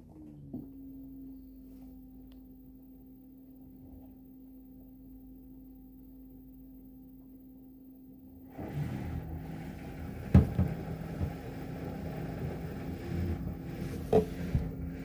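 LG washer-dryer in its intermediate spin, first a steady, faint whistling hum. About halfway through the drum starts to rumble and rock, then gives a sudden loud knock, the drum lifter striking the door glass, followed by smaller knocks and another sharp one near the end. The drum is rocking forward out of balance.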